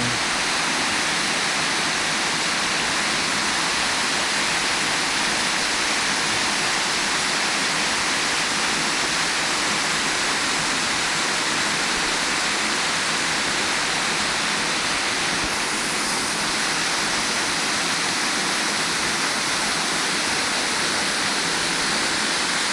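Waterfall: a steady rush of water pouring over rocks, even and unbroken.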